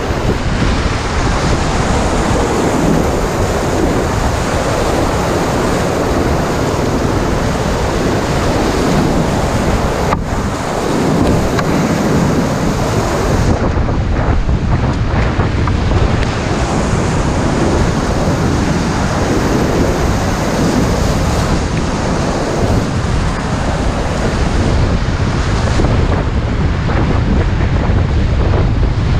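Rushing river whitewater, loud and steady, with wind buffeting the microphone.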